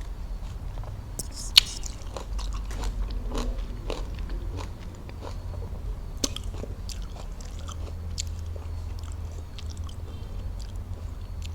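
Close-miked eating sounds of fresh fruit being bitten and chewed: wet chewing broken by irregular crisp clicks and crunches, with a sharp snap about a second and a half in and another about six seconds in.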